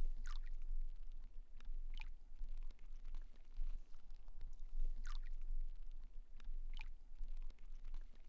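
Playground swing squeaking in its chains or hangers, a short falling squeak every couple of seconds, over a low wind rumble on the microphone.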